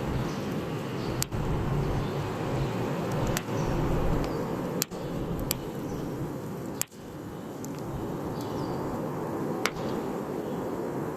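Wood fire burning with a steady low rush, punctuated by about six sharp pops and cracks from the burning wood.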